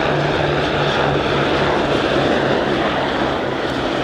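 Eurocopter AS350BA Squirrel helicopters flying by, a loud steady turbine and rotor noise with a regular low pulsing about three times a second.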